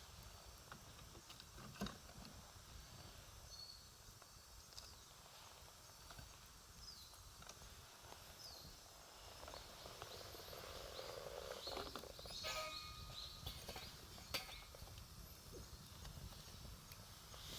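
Faint crackling of a wood campfire, with a couple of sharper pops about two seconds in and near the end, while small birds chirp now and then in the background.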